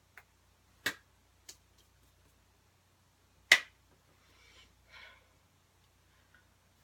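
Four sharp hand slaps, the loudest about three and a half seconds in, followed by two softer, noisy sounds.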